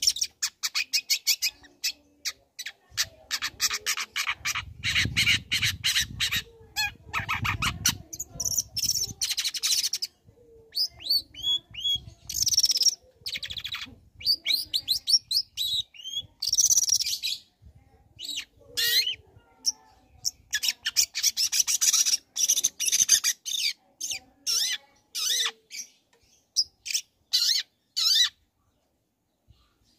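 Long-tailed shrike (cendet) singing an energetic, varied song: fast runs of chattering and harsh high notes, broken by short pauses, with a low rumble beneath it for a few seconds near the start.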